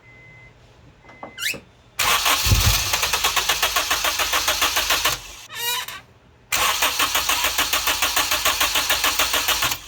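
Acura RSX K-series four-cylinder cranked on the starter in two bursts of about three seconds each, a fast, even chugging that never catches. The injectors are out of the head and rigged to spray into the open, so the engine cannot start.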